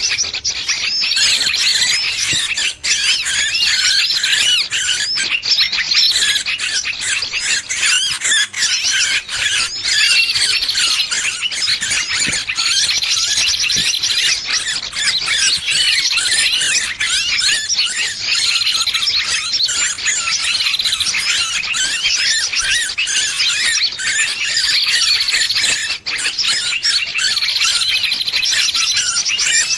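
Bird-trapping lure recording of small birds in distress: a dense, unbroken mass of high-pitched squeals and squawking chatter, the alarm calls of a trapped bird used to draw other birds in.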